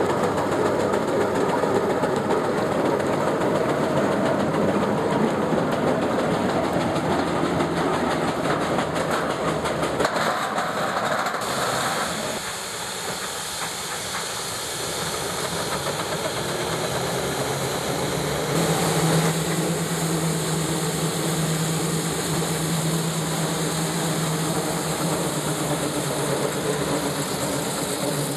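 Steam traction engine running, with steam hissing; about twelve seconds in the hiss comes to the fore, and later a steady low hum runs under it for several seconds.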